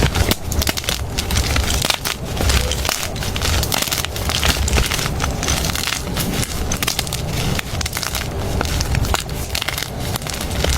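Gym chalk being crushed and crumbled by hand: continuous dense crunching and crackling with many small snaps, over a low rumble.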